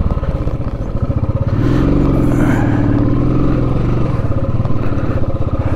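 Motorcycle engine running under load as it picks its way through a muddy patch of rough road. The engine note rises and holds for about two seconds in the middle, then drops back.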